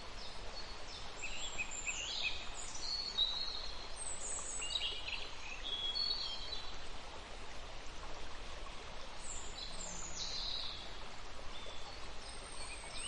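Birds calling: many short, high chirps and trilled notes come and go throughout, over a steady background hiss.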